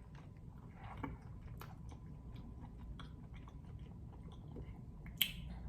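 Close-miked chewing and wet mouth sounds of someone eating king crab in garlic butter sauce, with scattered small clicks and one sharp, louder click about five seconds in.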